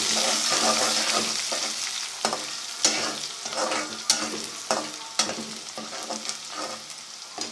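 Chopped garlic and browned onions sizzling in hot oil in a pan while being stirred, with short scrapes and clicks against the pan every half second or so. The sizzle slowly dies down.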